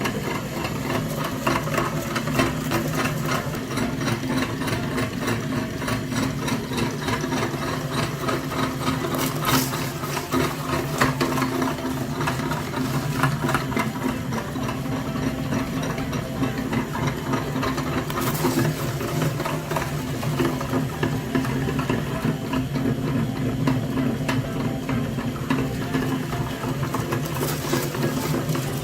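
A small motor running steadily with a fast, continuous mechanical rattle, typical of a mini tractor's drive, with a few brief hissing noises about ten and eighteen seconds in.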